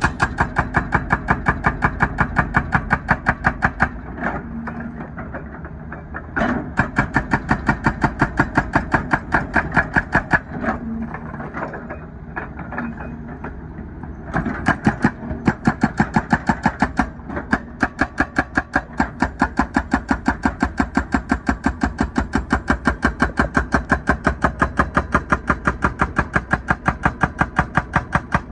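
Hydraulic breaker hammer on a wheeled excavator pounding asphalt: rapid, even blows, several a second, over the steady running of the excavator's engine. The hammering stops twice for a few seconds.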